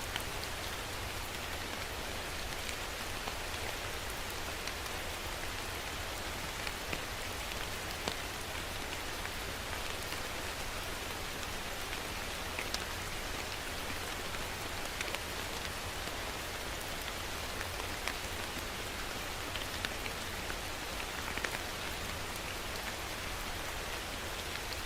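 Steady rain falling on a surface, an even hiss with scattered individual drops ticking throughout and a low rumble underneath.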